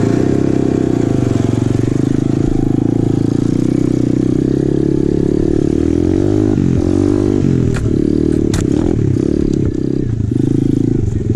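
Apollo RFZ Open 125cc pit bike's single-cylinder four-stroke engine running under load on a trail climb. The revs drop and climb again a little past halfway, and a couple of sharp knocks follow shortly after.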